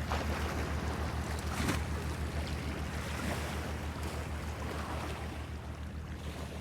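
Waves washing and splashing against a breakwater, with soft swells of spray every second or two, over a low, evenly throbbing hum like a boat engine running. The whole sound slowly fades down toward the end.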